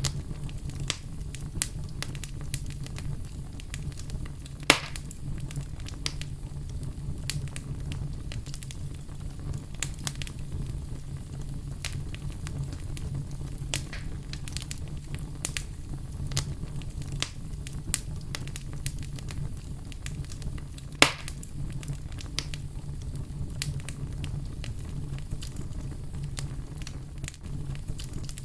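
Fire crackling over a steady low rumble, with frequent small snaps and two louder pops, one about five seconds in and one about three quarters of the way through.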